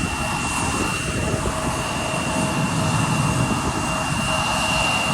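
Airliner jet engines running steadily at idle while the plane stands, a continuous rush with a steady high whine over it.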